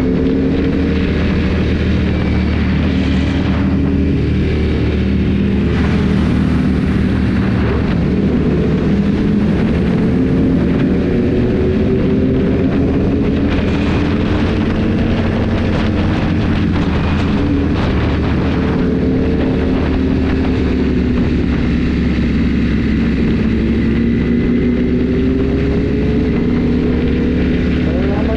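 Motorcycle engine running steadily while riding, its pitch drifting gently up and down with the throttle.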